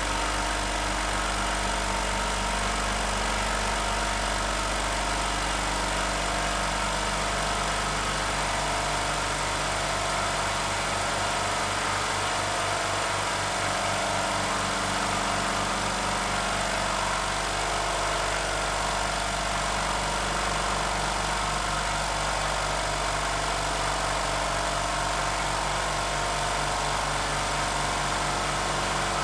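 HBM 6 PK oil-free Low Noise air compressor running steadily under load, its six-cylinder pump filling the 150-litre tank part-way toward 8 bar.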